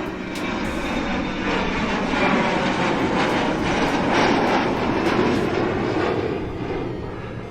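Vehicle sound effect: a rushing engine noise that builds up, peaks about four seconds in and fades away, as a vehicle passing by.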